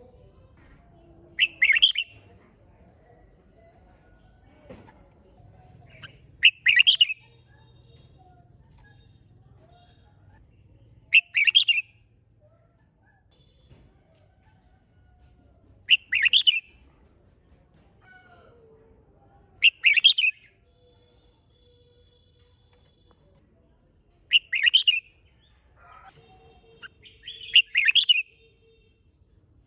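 Red-whiskered bulbul singing short, loud, whistled song phrases, one about every four to five seconds, seven in all. The song is its competitive territorial song.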